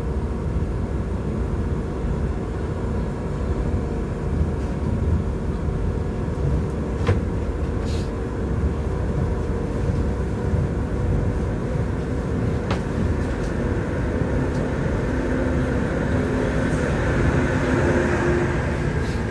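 Passenger train running along the track: a steady rumble of wheels on rails, with a few sharp clicks and a hiss that swells near the end.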